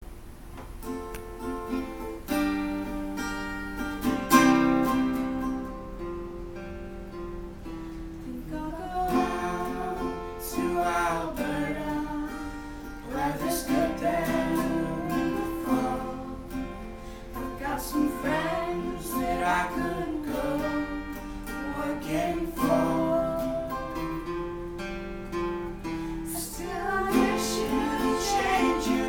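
Acoustic guitar being strummed, with a voice singing over it from about nine seconds in.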